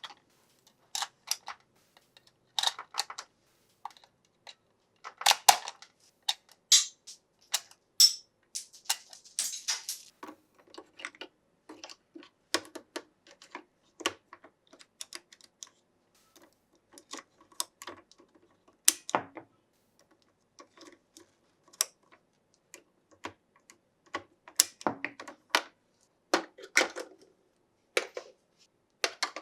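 Hands handling a plastic toy and its packaging: irregular clicks, taps and short rustles, some sharper than others.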